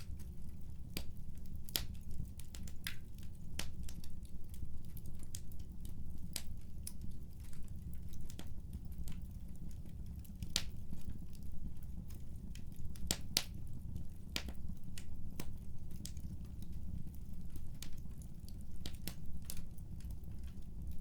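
Wood fire crackling in a fireplace: irregular sharp pops and snaps, a few of them louder, over a steady low rumble of the burning fire.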